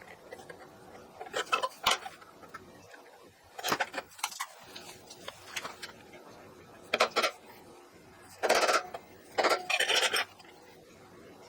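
Steel parts clanking and rattling in short bursts, about six times, as metal pieces are handled and knocked together.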